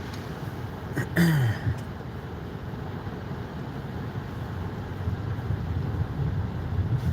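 Steady road and engine noise heard from inside a moving car's cabin. A brief vocal sound, falling in pitch, comes about a second in.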